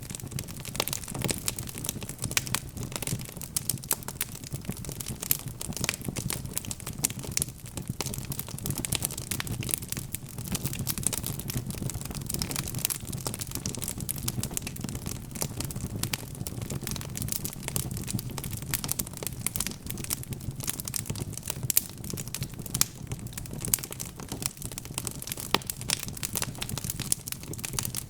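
Wood fire crackling steadily: a dense, irregular run of sharp pops and snaps over a low, even rumble of the flames.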